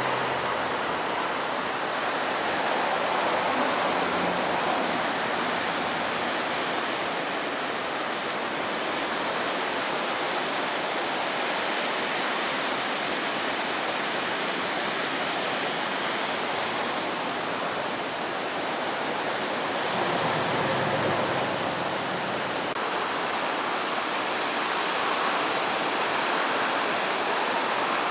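Ocean surf from a typhoon swell: a steady hiss of breaking and washing waves, swelling a few times as sets roll in.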